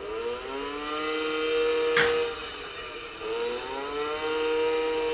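Small two-stroke minibike engines revving at the start gate. The pitch rises and holds twice, falling away briefly in between. A single sharp click comes about two seconds in.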